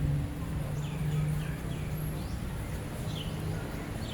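Small birds chirping: a series of short, high calls that sweep downward, over a steady low background hum.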